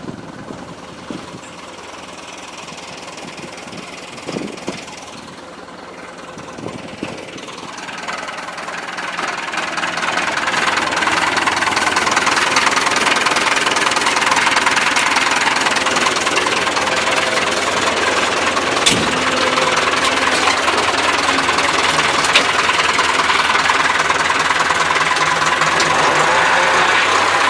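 Massey Ferguson tractor engine running, quieter at first, then growing louder over a few seconds from about eight seconds in and holding steady.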